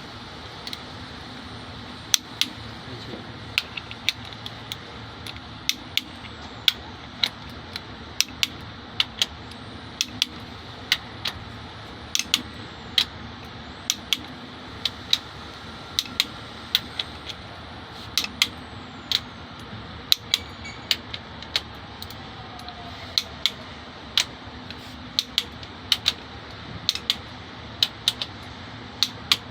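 Metal tools clicking and tapping on engine parts, sharp irregular clicks one or two a second over a steady hum, as the rockers of a diesel engine are fitted.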